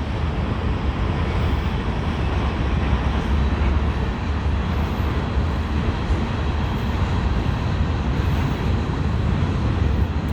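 CSX freight train rolling past: a steady, even noise with a strong low rumble and no horn.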